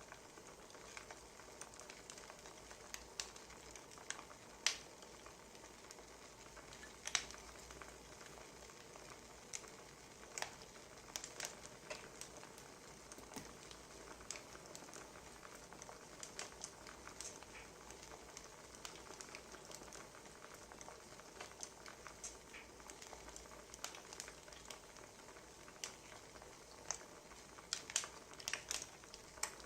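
Crackling wood fire: irregular sharp pops and snaps over a steady soft hiss.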